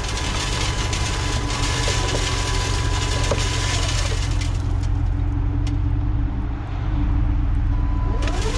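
Plow truck engine running steadily. Over it is a loud hiss that fades out about four and a half seconds in and comes back sharply near the end.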